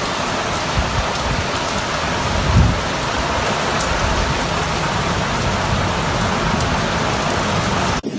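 Heavy rain pouring down in a thunderstorm, a dense steady hiss, with one brief low thump about two and a half seconds in.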